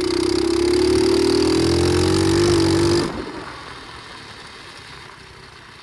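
Pit bike engine held at high revs for about three seconds, its pitch creeping slowly up, then the throttle closes and it drops suddenly to a much quieter low running sound.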